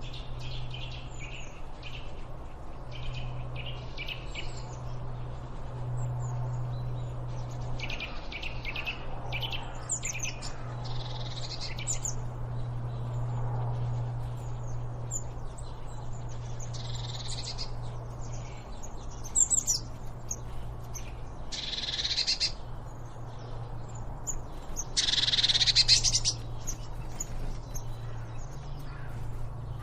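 Songbirds chirping and calling in short high bursts and trills, with a few louder calls in the second half, over a steady low hum.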